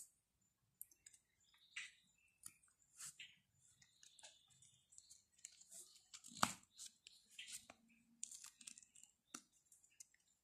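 Quiet close-up chewing of soft flatbread and curry, with small wet mouth clicks and a sharp click a little past halfway, and the soft tearing of roti by hand.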